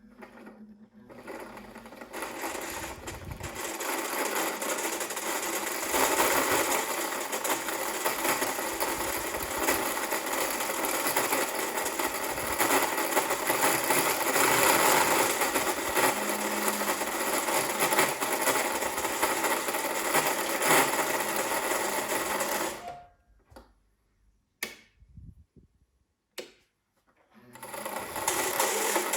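Bernina 1230 sewing machine running, speeding up over the first few seconds and then running steadily at speed. It stops about 23 seconds in, a few faint knocks follow in the pause, and it starts running again near the end.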